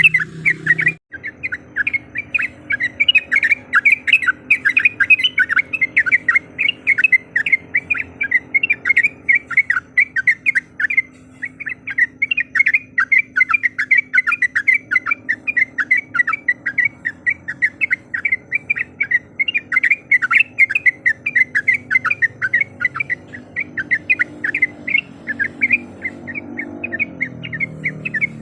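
Yellow-vented bulbul calling in a fast, unbroken string of short chattering notes, about four to five a second, with a brief break about a second in. A faint steady hum runs underneath.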